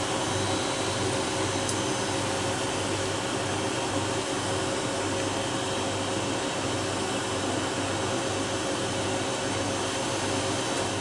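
Inside the cabin of a Hawker 800 business jet, its twin turbofan engines running: a steady rushing hiss with a few faint steady hum tones underneath.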